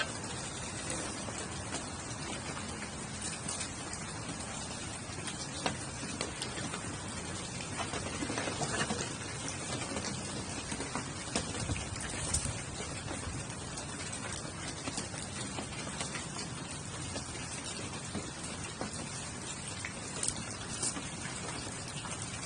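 Steady rain falling, with scattered light ticks and pops.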